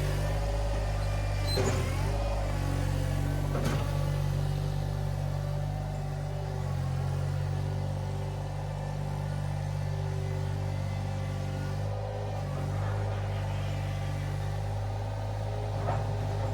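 Iron Rhino IR1200 mini skid steer's engine running steadily under working load, its pitch shifting a little as it works. Two short sharp knocks come about two and four seconds in.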